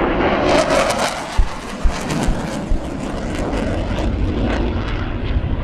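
Panavia Tornado GR4 jet making a low, fast show-of-force pass, its twin RB199 turbofans a loud rushing noise that peaks about half a second to a second in and then slowly eases. A few sharp thumps stand out in the first three seconds.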